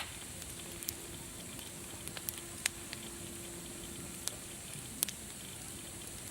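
Wood fire crackling: a steady hiss with sharp, irregular pops, the loudest right at the start and a few more spaced a second or so apart.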